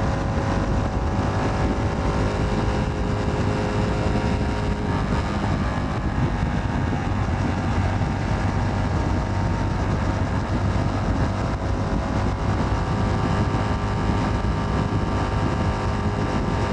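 CFMoto 300NK single-cylinder motorcycle engine running steadily at cruising speed, heard from the rider's microphone, with steady road and wind noise.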